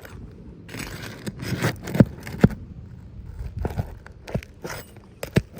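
Asphalt roof shingles scraping and crackling as a pry tool works under them to loosen nails, with several sharp knocks of metal, two of them half a second apart about two seconds in.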